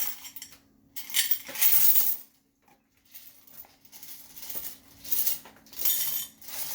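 Coins being poured into a tin-foil boat, clinking in several bursts. The longest and loudest burst comes about a second in.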